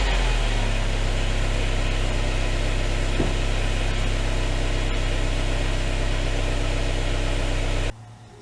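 Subaru Levorg 1.6GT-S's turbocharged 1.6-litre flat-four engine idling steadily through its exhaust. The sound cuts off abruptly near the end.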